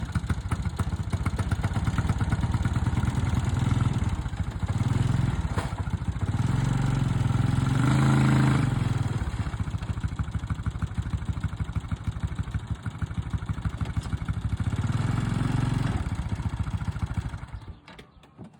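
A small vehicle engine starts abruptly, runs under load with a rise in revs around the middle, and shuts off near the end, while pulling a large chicken tractor across the pasture.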